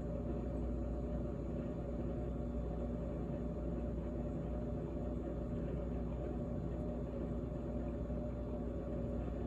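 GE GTH18XCTZRBB refrigerator running: a steady hum with several constant tones.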